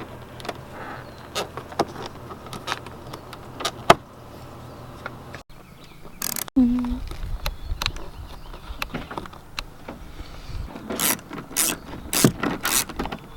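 Scattered clicks, knocks and rattles of hand tools and parts being worked on a car door, with a cluster of quick knocks near the end.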